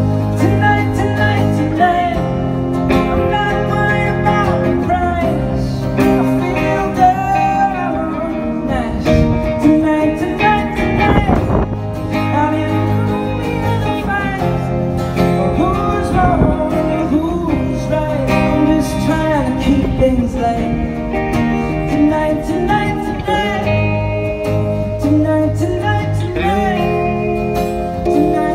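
Live rock band playing, guitars to the fore over a steady bass line and beat.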